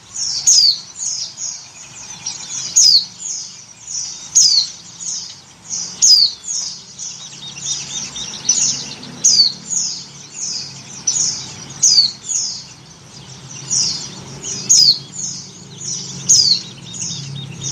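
White-eyes (pleci) chirping: a rapid, continuous run of short, high, downward-sliding call notes, several a second and overlapping. Offered as the call of a female in breeding condition calling to males, used to lure birds.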